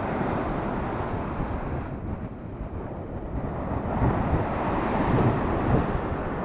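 Rough sea surf washing onto the shore, with wind buffeting the microphone; the wash dies down about two seconds in and swells again about four seconds in.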